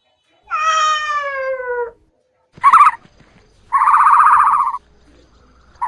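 A cat meows once, a drawn-out call that falls in pitch. It is followed by a short sharp call and a quavering, rapidly pulsing animal call about a second long, which starts again near the end.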